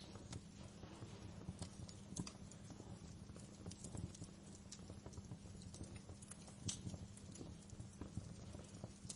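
Wood fire crackling in a fireplace: irregular sharp pops and snaps over a steady low hum, with the loudest pop a little under seven seconds in.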